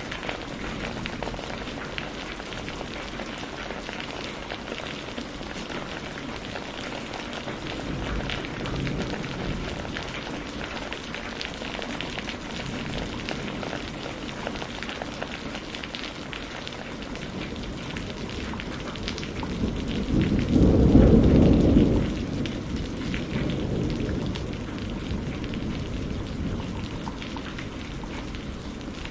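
Steady rain falling, with many small raindrop ticks over a constant hiss. About two-thirds of the way through, a low rumble of thunder swells, peaks for a second or two, and fades.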